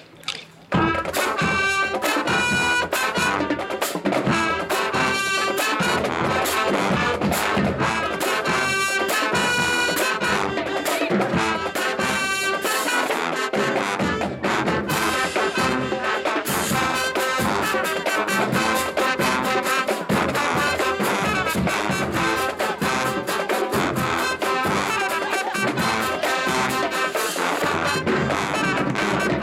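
HBCU marching band playing loudly, brass section of trumpets and trombones over a driving drumline beat, starting just under a second in.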